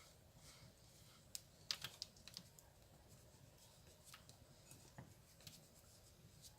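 Faint, scattered clicks and taps of kitchen utensils against a bowl, a quick cluster of them about one and a half to two and a half seconds in, while gram flour and spices are mixed into the chicken.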